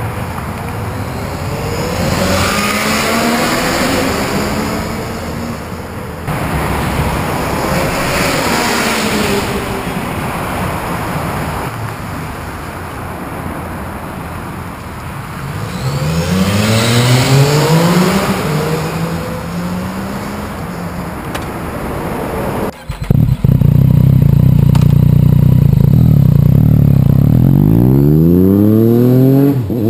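Yamaha FZ-09's three-cylinder engine being revved through its exhaust, rising and falling in pitch several times. About two-thirds of the way through, the sound cuts to a louder, steady engine note that climbs sharply in a rev near the end.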